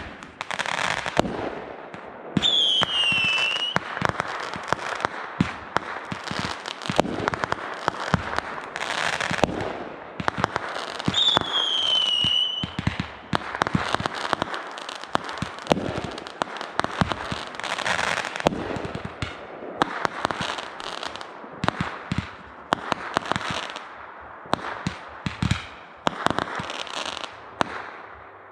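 Fireworks going off in a dense run of bangs and crackling. Two whistling fireworks scream, each falling in pitch, about two and a half seconds in and again about eleven seconds in.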